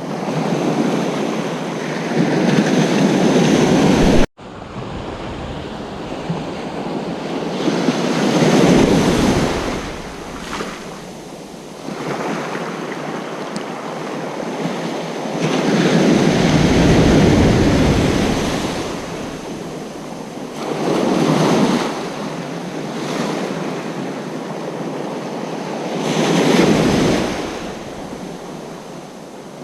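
Ocean surf on a beach: waves breaking and washing up, swelling and fading every few seconds. About four seconds in, the sound cuts out for an instant.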